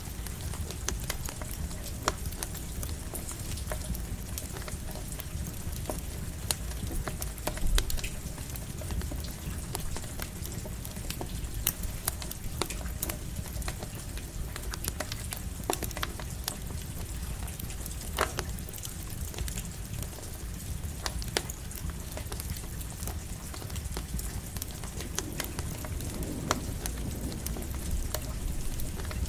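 Campfire crackling while light rain falls: a steady hiss with frequent sharp snaps and pops at irregular intervals, over a low rumble.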